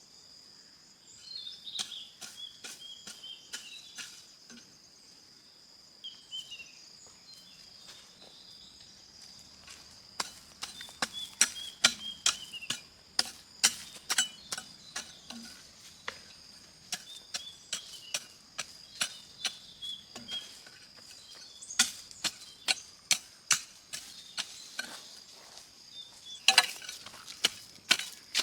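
Irregular sharp knocks and taps, several a second at their busiest, over a steady high insect drone and short falling bird chirps.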